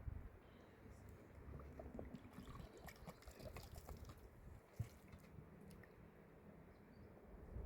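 Near silence: faint scattered clicks and one soft tap about five seconds in, over a low rumble.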